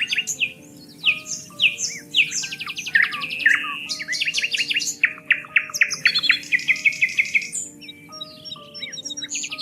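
Several songbirds chirping and singing together in quick, overlapping phrases, including rapid trills, over soft background music of long held notes.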